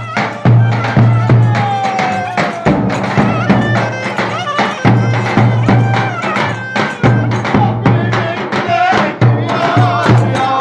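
Turkish folk dance music played live: a melody line with sliding notes over a steady beat of drum strokes and a pulsing bass.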